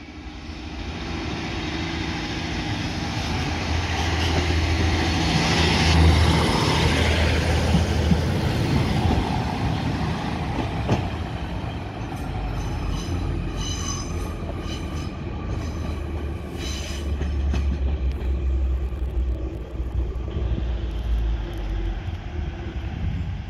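Class 153 single-car diesel railcar running past and pulling away, its engine and wheels giving a steady low rumble. About halfway through come several brief high wheel squeals.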